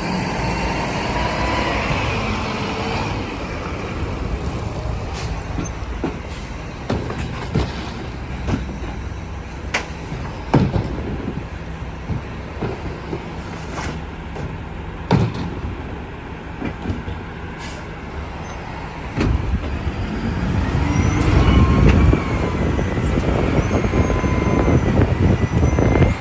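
Garbage truck engine running, with sharp clanks and knocks of trash and metal through the middle. Toward the end the rumble grows louder and a whine rises and falls as the packer compacts the load.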